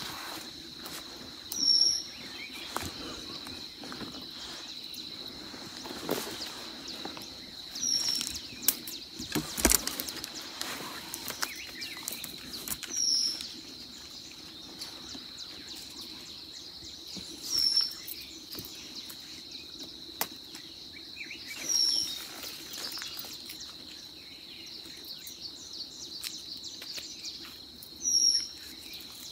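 A bird repeating a short, high call about six times, every four to six seconds, over a steady high-pitched insect drone. Faint crackles of dry leaves and twigs being handled come in between.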